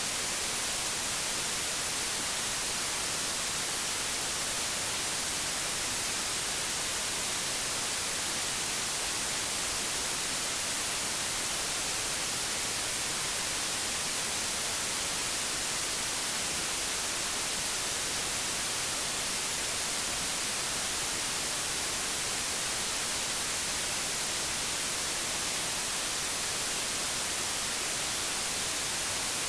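Steady static hiss of an old analogue television tuned to no station, even and unbroken, strongest in the high frequencies.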